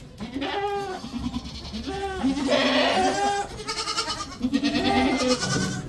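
Goats bleating: a string of quavering calls, one after another.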